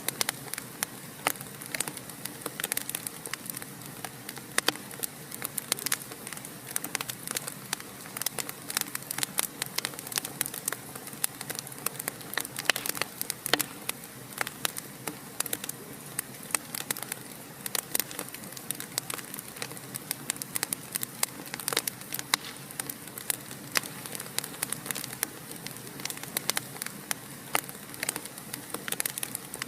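Wood fire crackling in a fireplace: many irregular sharp pops and snaps, some much louder than others, over a steady hiss.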